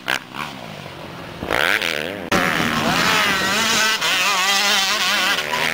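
Motocross bike engines revving hard, their pitch rising and falling with throttle and gear changes. Quieter for the first second and a half, then loud again from about two seconds in.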